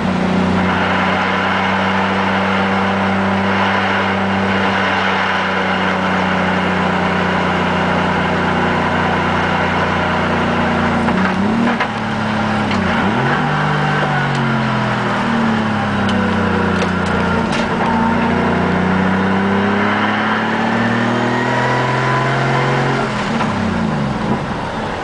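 Turbocharged Nissan RB25 straight-six, heard from inside the car's cabin. The revs hold steady for about the first ten seconds, then fall and climb again several times as the car is driven.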